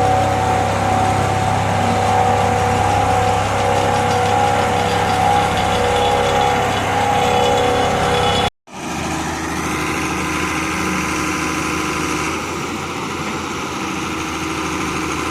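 Heavy machinery diesel engine running steadily. About eight and a half seconds in the sound cuts off abruptly and resumes as a different, slightly quieter engine running.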